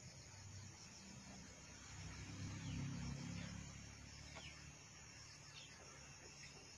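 Faint outdoor ambience: a steady high insect chirring, with a low rumble that swells and fades around the middle, like a vehicle passing at a distance, and a few short high chirps.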